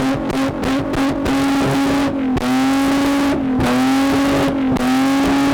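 Car engine revving on a two-step launch-control limiter: held at a steady high pitch with rapid crackling pops. Three times it briefly drops off and climbs straight back up to the limiter.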